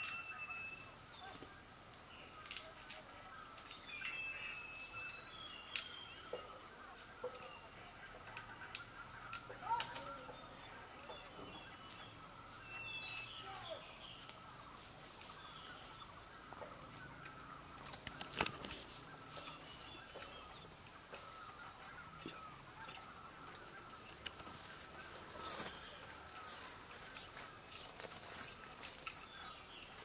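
Outdoor natural ambience: short scattered bird chirps over a steady high-pitched hum, with a few sharp clicks or taps now and then.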